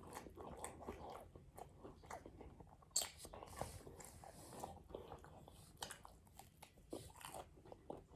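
Close-miked chewing and biting of food, with soft crunches and mouth clicks; one sharper click about three seconds in.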